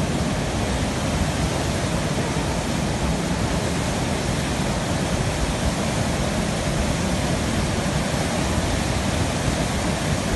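Steady, unbroken rush of a flooded mountain river in spate.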